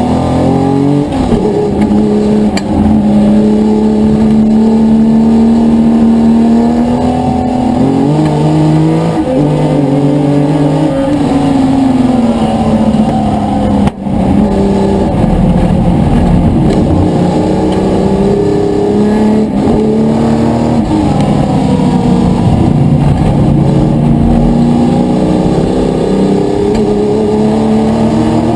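Historic touring car engines racing at full throttle, their pitch climbing and falling again and again with acceleration, gear changes and lifts for corners. The level drops sharply for a moment about halfway through.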